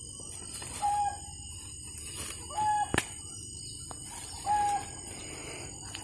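A bird's short whistled note, repeated three times about two seconds apart, over a steady high-pitched whine. One sharp click comes about three seconds in.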